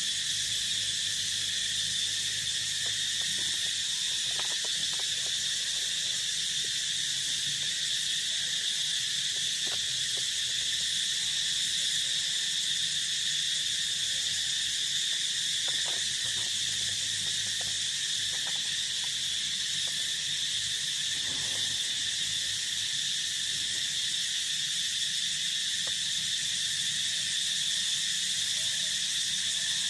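A steady chorus of field insects: a continuous high-pitched shrill trill that holds at one pitch and never breaks.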